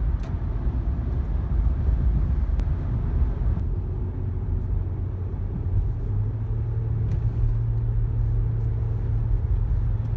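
Honda Odyssey minivan driving on the road, heard from inside the cabin: a steady low rumble of tyres, road and engine. A steadier low engine hum comes up about six seconds in.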